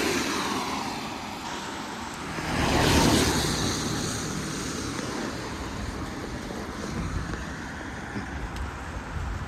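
Street traffic: a car passes, loudest about three seconds in, over a steady hiss of road noise.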